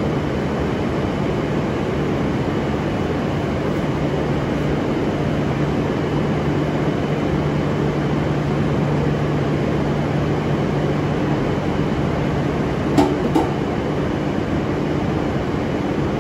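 Steady hum and whir of an E5 series Shinkansen train standing at the platform with its onboard equipment running, with two short clicks about 13 seconds in.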